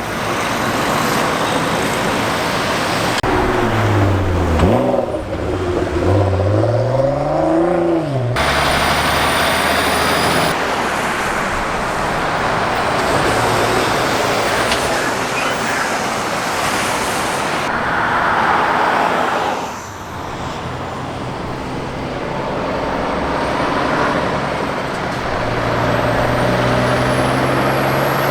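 Trucks and other traffic passing close by on a main road: engine and tyre noise, in short stretches joined by abrupt cuts. In one stretch a truck engine's pitch dips and then rises again as it goes by.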